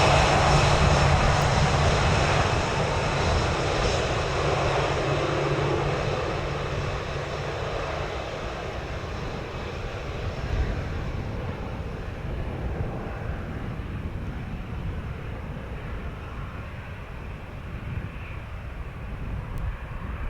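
Jet airliner's engines at high power, fading steadily as the aircraft climbs away after takeoff. The high-pitched part of the sound dies first, leaving a low rumble, with wind buffeting the microphone.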